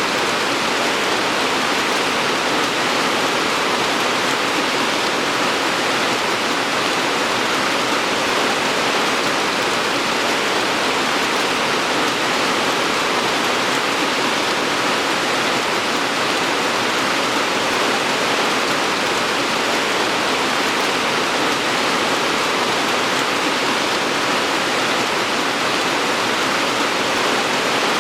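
Steady heavy rain falling, an even hiss without separate drops or changes.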